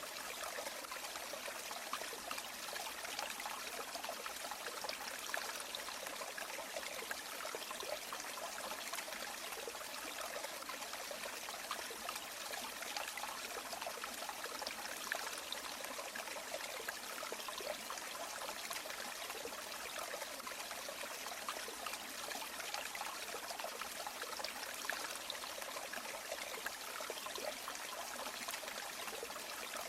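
River water flowing and trickling steadily, with a fine, constant babble of small splashes and no deep rumble.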